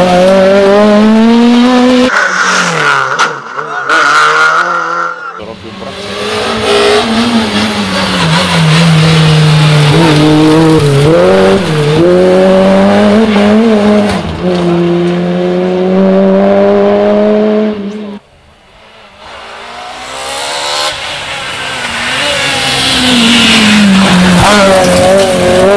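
Rally cars at full throttle over a crest on a special stage, one after another. Each engine revs high and rises and falls in pitch through the gear changes. The sound breaks off suddenly about two seconds in and again near eighteen seconds, and then a new car's engine builds up.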